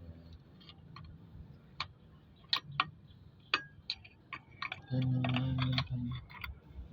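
Metal hand tools clicking and clinking at irregular intervals on engine parts, with a steady low hum lasting about a second around the middle.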